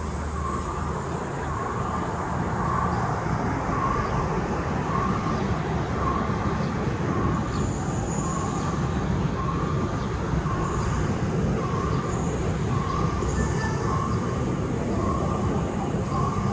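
Diesel-hauled excursion train passing with a steady rumble. A ringing tone repeats about once a second throughout.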